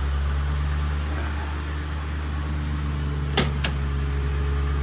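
Ford 4.6-litre V8 idling with a steady low hum, and two sharp clicks a quarter second apart about three seconds in.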